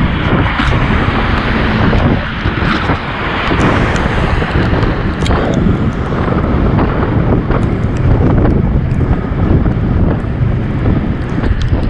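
Wind rushing over the microphone of a camera on a moving bicycle: a loud, steady, rumbling rush with scattered small clicks.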